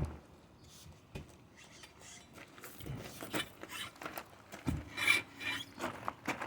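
Short rasping, rubbing scrapes in uneven strokes, coming closer together in the second half, some with a squeaky edge: tools working rubber and steel as a big truck tire is broken down off its wheel.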